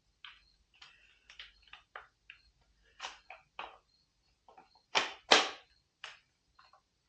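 A string of small clicks and clatters from tools and parts being handled, with two louder knocks about five seconds in.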